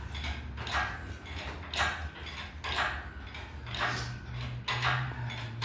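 Light metallic clinks and clanks, roughly one a second, from a cherry-picker engine hoist and its lifting chain as the engine is raised out of the car.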